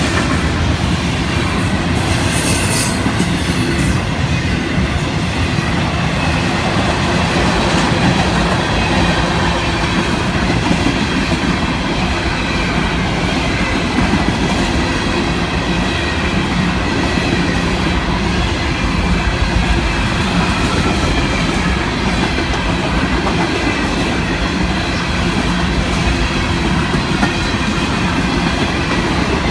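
A long Florida East Coast Railway freight train's cars rolling past, a steady loud rumble of steel wheels on rail with clicking over the rail joints and a faint steady wheel squeal.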